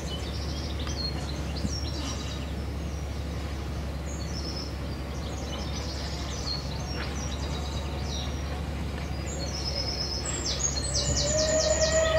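Songbirds chirping and singing over a steady low outdoor rumble, with a quick trill of repeated notes near the end. In the last couple of seconds a steady pitched drone sets in and grows.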